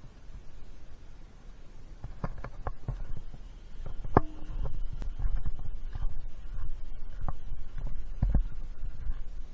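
Footsteps of a person walking a wet, overgrown trail, with a low rumble of handling noise on the microphone and a few sharp clicks and snaps of brush, getting busier from about two seconds in.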